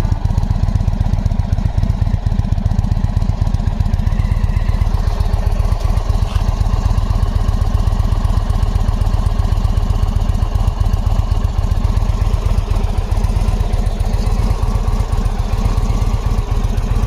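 Indian motorcycle's V-twin engine idling steadily after its first start of the season, running evenly with no revs.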